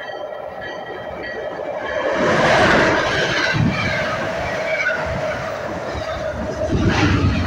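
MBTA commuter rail train of bi-level coaches passing close along the platform. A repeated ringing stops about a second in, then the train arrives with a rising rush about two seconds in, followed by steady wheel rumble and clatter.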